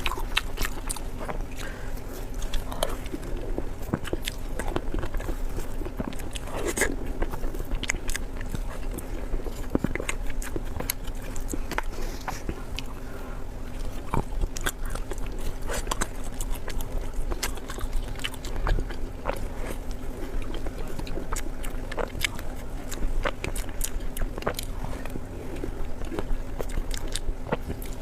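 A person chewing and biting food close to the microphone, a steady run of small sharp, moist clicks and smacks. A faint steady hum sits underneath.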